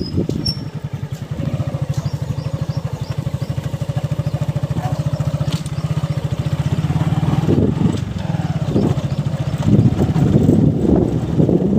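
Motorcycle engine running at low revs with a steady, fast, even beat; near the end the sound becomes louder and irregular.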